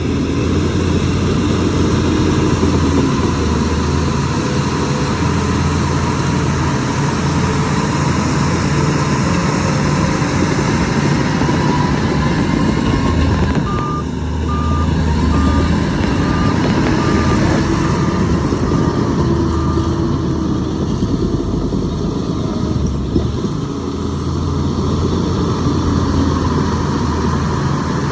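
Heavy diesel earthmoving machinery running steadily with a deep engine rumble. Around the middle, a reversing alarm sounds about ten even beeps, roughly one every half second, then stops.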